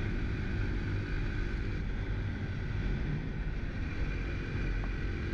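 Off-road motorcycle engine running at a steady speed, its pitch holding level.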